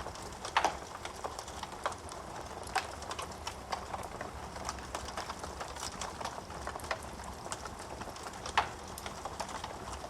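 Wood fire crackling in a fireplace: a steady run of irregular small pops and ticks, with two louder snaps, one about half a second in and one near the end.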